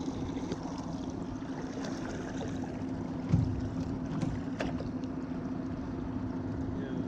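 Small boat's motor running steadily with a low, even hum, and a single dull thump a little over three seconds in.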